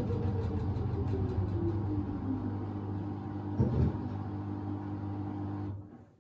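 Samsung WD70T4047CE washer-dryer running its drum with a steady motor hum and one thump a little over halfway through; the hum stops sharply just before the end as the drum halts mid-cycle.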